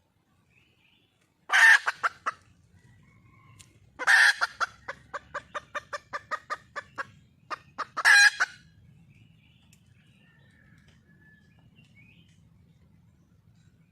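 Wild red junglefowl hen calling for a mate: a loud squawking call, then another that runs into a string of short, evenly spaced clucks about three a second, then a third loud call near the middle. Faint chirps of other birds and a low hum lie underneath.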